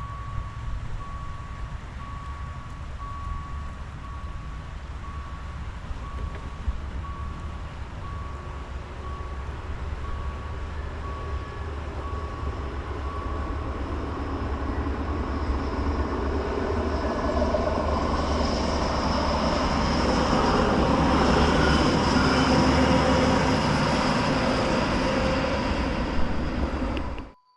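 A steady, regularly repeating electronic warning beep, with vehicle rumble underneath. The beeping stops about halfway through as a vehicle's rumble and whine grow much louder. The sound then cuts off suddenly near the end.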